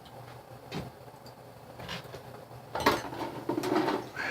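Metal tools and parts being handled on a workbench: a few light knocks, then a louder clatter with some ringing about three seconds in.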